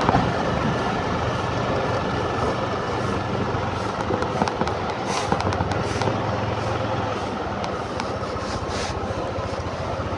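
Motor scooter engine running steadily amid road traffic, with a few short sharp clicks in between.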